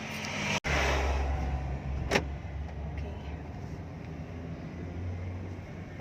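Car engine and road rumble heard from inside the cabin as the car pulls away in first gear, with a single sharp click about two seconds in.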